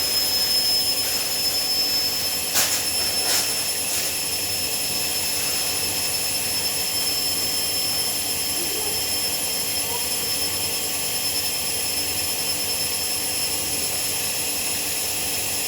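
Hoover 7 kg washing machine in its final spin at 800 rpm: a steady drum-and-motor noise with a high, even motor whine, and two short clicks about three seconds in.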